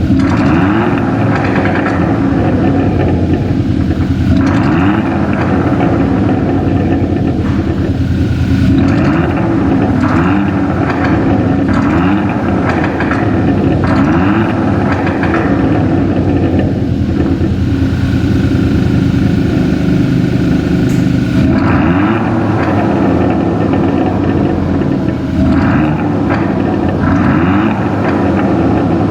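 Hyundai Tucson (TL) exhaust note through a Veloster N Performance exhaust, revved again and again, the pitch climbing with each rev and dropping back between them.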